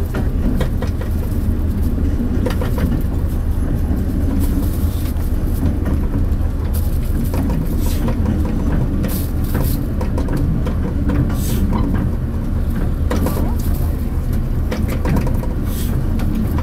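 Diesel railcar running along the line, heard from inside the front car: a steady low rumble of engine and wheels on rail, with irregular sharp clicks and rattles.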